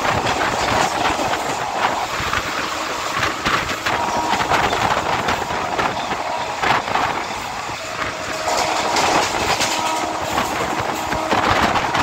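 Passenger train running at speed, heard from a coach doorway. The wheels clatter over rail joints and points in a rapid, irregular run of clicks over a steady rushing noise.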